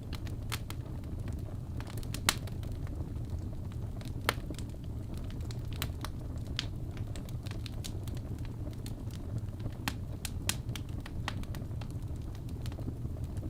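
Wood fire crackling in a fireplace: irregular sharp pops and snaps over a steady low rumble, with two louder pops about two and four seconds in.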